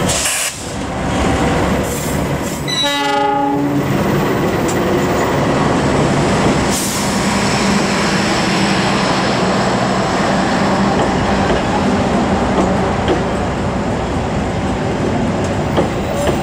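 A diesel locomotive sounds its horn once, about a second long, roughly three seconds in. Its passenger coaches then roll past at speed, the wheels rumbling and clacking on the rails.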